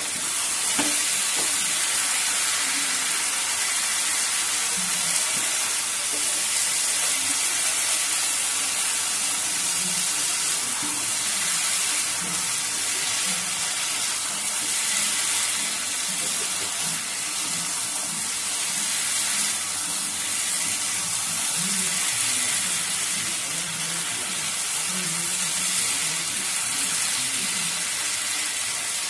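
Spiced potato chunks sizzling steadily in oil and a splash of water in a non-stick wok, stirred with a silicone spatula, as the potatoes are fried down with their spices (kosha).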